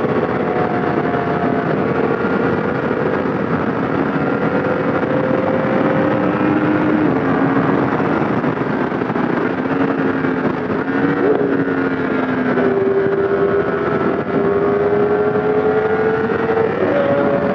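Yamaha MT-10's crossplane inline-four through an SC Project exhaust, running under way with its pitch rising slowly and jumping a few times, over steady wind noise on a helmet microphone.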